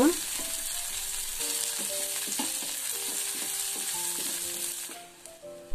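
Sliced shallots, garlic and chilies sizzling in a little oil in a saucepan as they are stirred with a spatula, sautéing until fragrant. The sizzle dies away near the end, with soft background music underneath.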